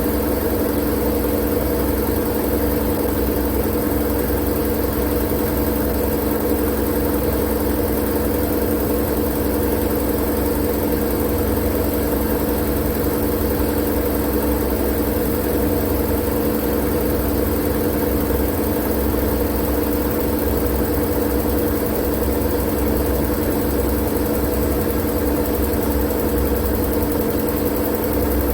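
Steady, unchanging white-noise sleep sound: a constant machine-like drone with a low rumble and a hum underneath, with no breaks or changes.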